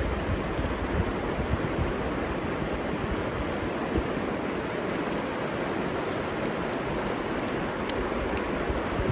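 River water rushing steadily, with some low rumble of wind on the microphone and a few faint sharp ticks near the end.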